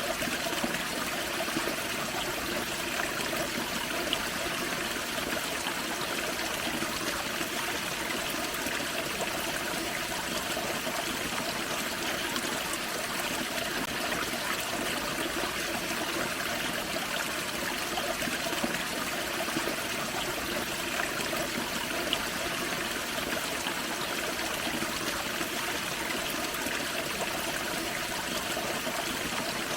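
Forest creek running over a small waterfall: a steady rush and splash of water.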